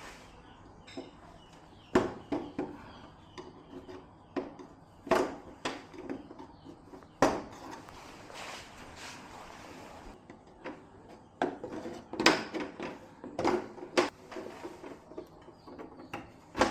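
Irregular sharp knocks and clicks of hard objects being handled and set down, about one a second, with light rubbing and scraping between them.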